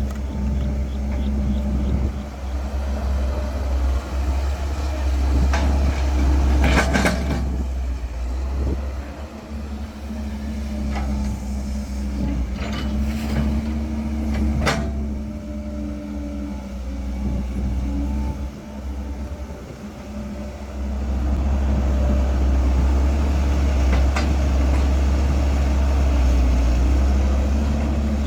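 Caterpillar 312 hydraulic excavator's diesel engine working, a steady hum that dips twice and picks up again about two-thirds of the way through. A few sharp knocks and clanks cut through it, the loudest about seven seconds in.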